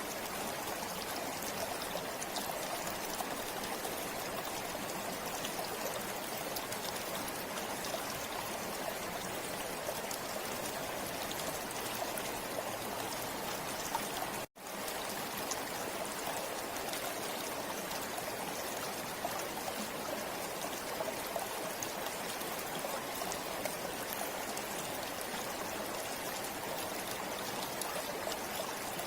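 River water flowing steadily over rocks, an even rushing and trickling. About halfway through the sound cuts out for a split second and comes straight back.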